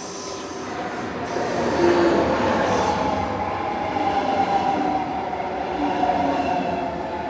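Passenger train of an electric locomotive and double-deck coaches drawing into the platform close by, slowing as it comes in. It rumbles with a steady whine, and it is loudest about two seconds in as the locomotive passes.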